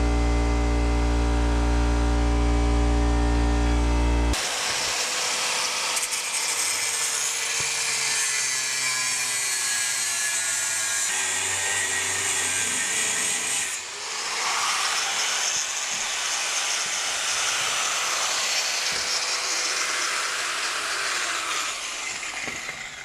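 A power tool cutting metal: a loud, steady grinding hiss with a lot of high-pitched content that shifts in tone a couple of times. For the first four seconds there is a different low, steady hum instead, which cuts off abruptly.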